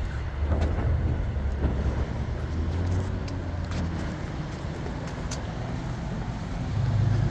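Street traffic: car engines running and passing with a steady low rumble, a nearer vehicle growing louder near the end.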